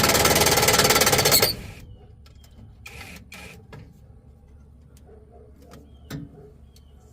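Impact driver hammering on a bolt in a fast rattle for about a second and a half, then cutting off. A few light clicks and knocks of tools and parts being handled follow.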